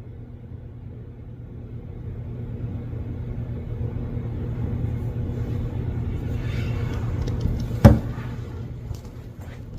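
Steady low hum of a running engine or motor, growing louder a couple of seconds in, with one sharp knock about eight seconds in.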